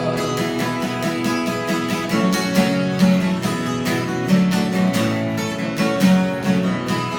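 Acoustic guitar strummed in a steady rhythm, the closing instrumental bars of a live song with no singing.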